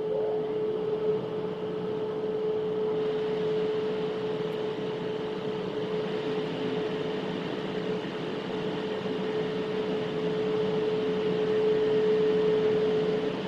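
Automatic car wash machinery running, heard from inside the car: a steady mechanical hum with one constant tone, and a hiss that grows a little about three seconds in.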